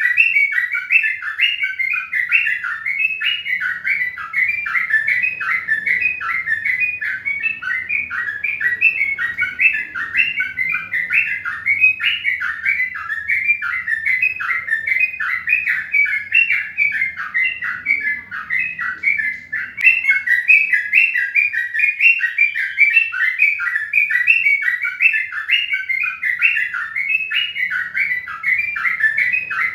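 Many birds chirping at once in a dense, unbroken stream of short overlapping calls, several a second.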